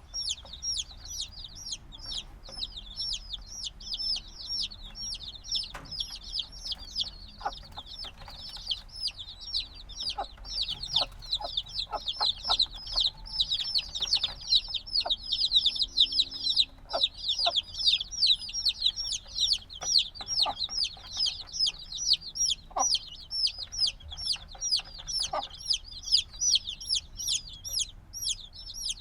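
A brood of newly hatched chicks peeping loudly and continuously, many short high-pitched downward-falling chirps overlapping with no pause. These are the loud calls of chicks only a few days old that still need warmth from a brooding hen.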